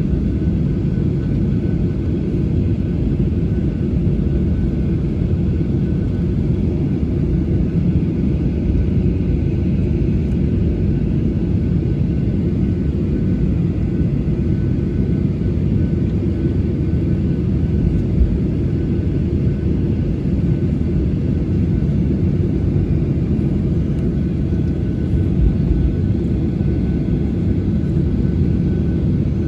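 Boeing 737-800 cabin noise while taxiing: the jet engines at idle thrust, heard from inside the cabin as a steady low rumble with a faint steady whine above it.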